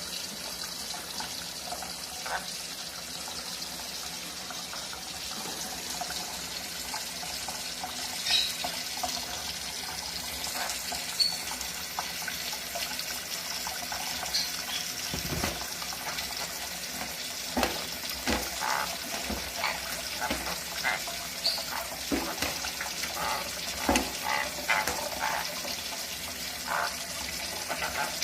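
Water running steadily from a tap, with scattered splashes and knocks and a few brief high squeaks.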